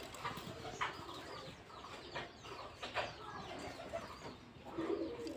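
Pet budgerigars chirping and chattering in a series of short, scattered calls.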